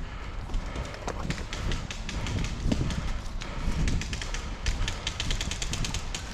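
Airsoft guns firing: scattered sharp clicks, then a quick run of evenly spaced shots late on, over low rumble of wind and movement on the microphone.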